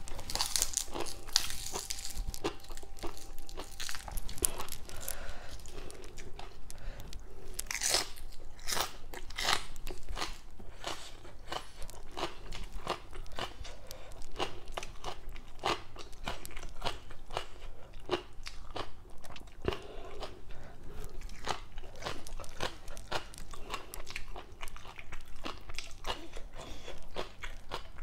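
Close-miked crunching and chewing of raw vegetables and green papaya salad, a dense run of irregular sharp crunches with the loudest bites about eight seconds in.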